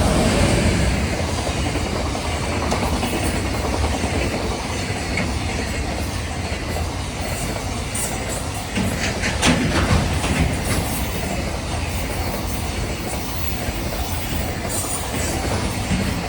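Container freight train rolling past, hauled by an EF210 electric locomotive: a steady rumble of steel wheels on rail with rhythmic clickety-clack over the rail joints and a cluster of sharper clacks about halfway through.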